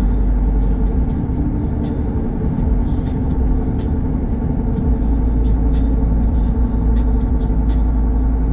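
Motor vehicle on the move: a steady engine and road rumble that holds level throughout, with scattered light ticks over it.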